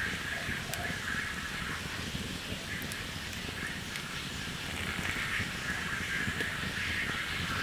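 Steady rainfall with a continuous chorus of animal calls in a high, shimmering band that grows a little louder near the end, and a few faint drips.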